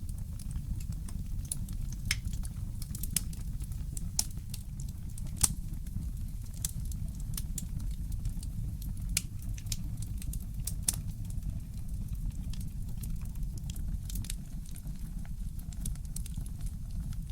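Wood fire crackling in a fireplace: irregular sharp pops and snaps, the loudest about five and a half seconds in and another near eleven seconds, over a steady low rumble.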